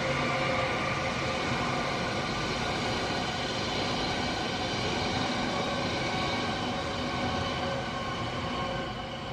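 A train running on rails: a steady rumble and rush with faint humming tones in it, easing slightly near the end.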